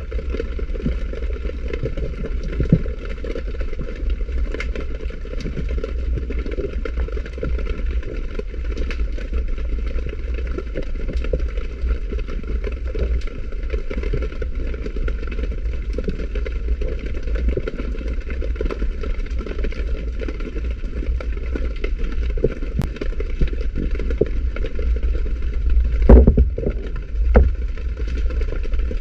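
Underwater ambience recorded through a camera housing: a steady low rumble with scattered crackles and clicks, and two louder knocks near the end.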